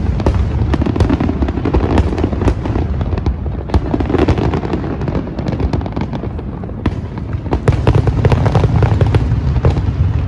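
Fireworks going off in a dense barrage: rapid cracks and pops over a continuous deep booming rumble, easing a little mid-way and building again near the end.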